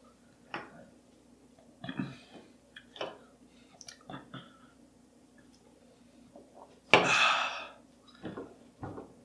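A person handling and eating a piece of extremely hot chocolate: a few small clicks and rustles, then a loud, breathy rush lasting under a second about seven seconds in, followed by a few more small mouth and handling sounds.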